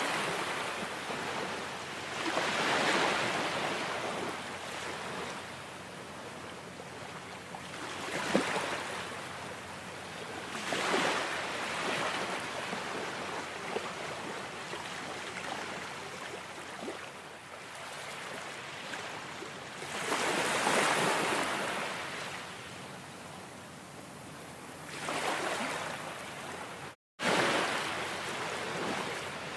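Ocean surf: waves washing in and breaking, the hiss of water swelling and fading in irregular surges every few seconds. Near the end the sound cuts out completely for a split second, then resumes.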